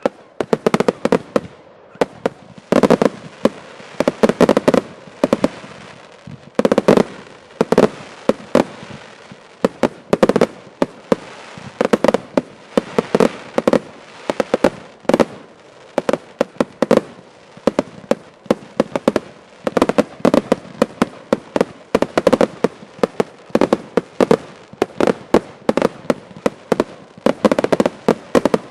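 Fireworks finale: a dense, unbroken barrage of shells and salutes bursting in rapid volleys, many bangs a second.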